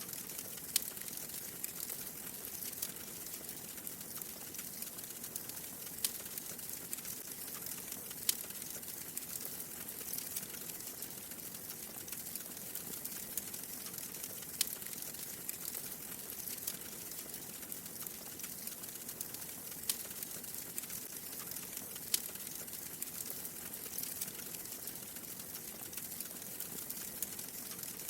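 Wood fire crackling in a fireplace: a steady soft hiss with sharp pops every few seconds.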